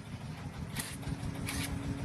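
An engine running at a low idle with a rapid, even pulsing, and two short hisses about a second apart.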